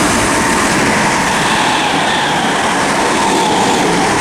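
Two coupled Class 321 electric multiple units running through the station without stopping: a loud, steady noise of wheels on rail.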